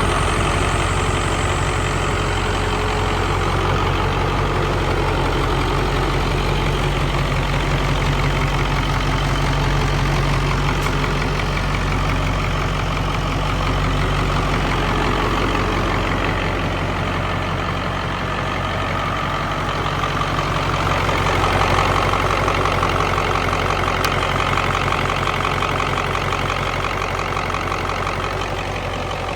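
Caterpillar 3208 turbocharged V8 diesel engine running steadily at idle.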